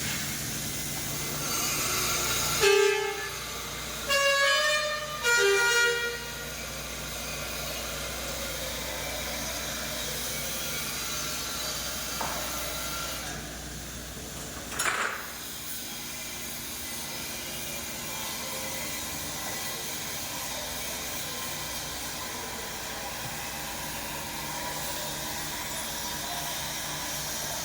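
Truck horn honking three times in quick succession, loud and pitched, over a steady low hum; a single short sharp sound comes about halfway through.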